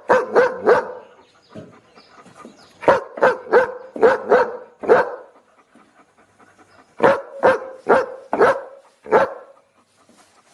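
A dog barking in quick runs of several sharp barks, with pauses of a second or two between the runs.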